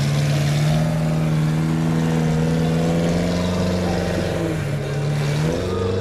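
Off-road 4x4 engine running hard and revving, its pitch holding fairly steady with small dips and rises.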